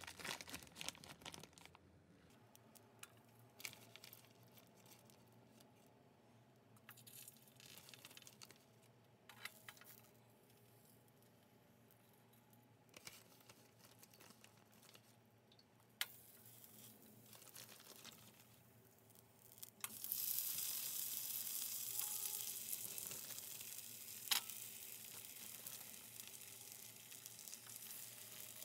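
Plastic packaging crinkling and rustling, with scattered handling clicks, then from about twenty seconds in a steady sizzle as pork potstickers fry in hot oil in a frying pan. A single sharp click sounds a few seconds after the sizzle starts.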